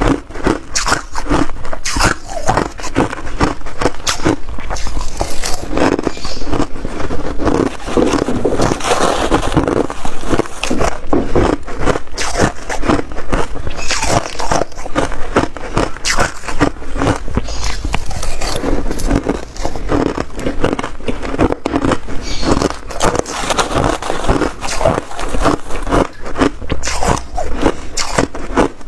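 A person biting and chewing hard ice, a dense run of loud crunches and cracks close to the microphone without pause.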